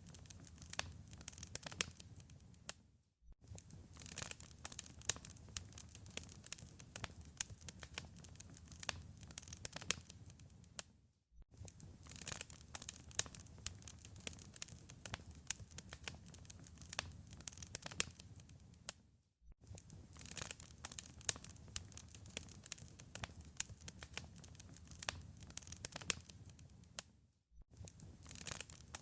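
Wood fire in a fireplace crackling and popping, with many small sharp snaps over a low rumble. The sound cuts out to silence for a moment four times, about every eight seconds.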